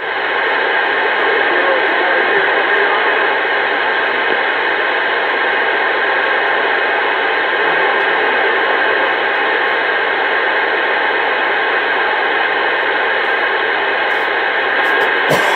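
CB radio speaker giving out a steady, even hiss of static on an open channel, with a short burst near the end as the signal drops.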